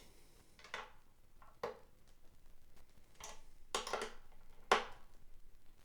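A handful of light, irregular clicks and taps from fingers working the metal tuner bushing nuts on an acoustic guitar's headstock, checking and hand-tightening them; a couple of the nuts are slightly loose.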